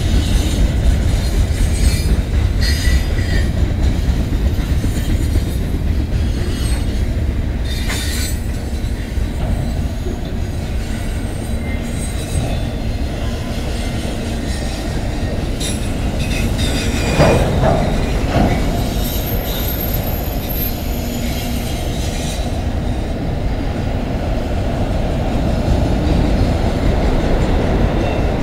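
CN freight cars, autoracks among them, rolling past close by: a steady rumble and clatter of steel wheels on rail. There is a louder clank about two-thirds of the way through, followed by a thin high wheel squeal for a few seconds.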